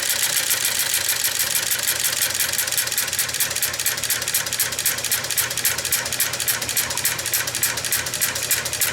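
Rapid, even clicking of a 1908 Matheson engine's make-and-break ignition hammers and cam gear, turned over by a belt-driven sewing-machine motor without firing, over a steady motor hum. The clicks become more widely spaced as the motor is slowed.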